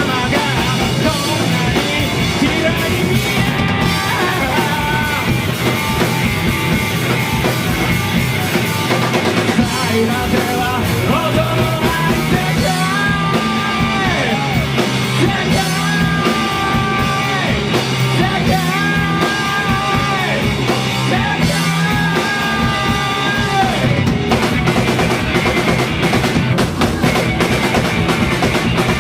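Live garage-rock band playing loud, with drums and electric guitars; a held melodic phrase repeats several times in the middle.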